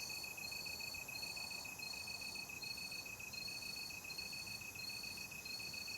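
Crickets chirping in a night chorus. One keeps up a steady, rapid pulsing chirp, while a higher, thinner trill comes in short phrases about every three quarters of a second, over a soft background hiss.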